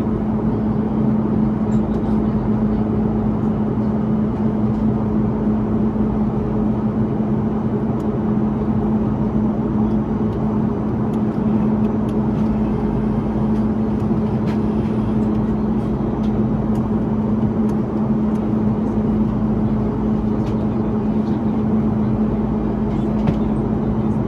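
Steady cabin noise of an Airbus A330-300 climbing: the even rush of airflow and its Rolls-Royce Trent 700 engines, with a constant low hum underneath and a few faint ticks.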